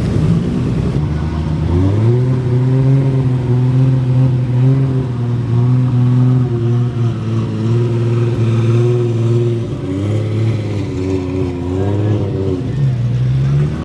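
Car engine revved up about two seconds in and held at raised revs, wavering a little, then dropping back near the end before a quick rising rev.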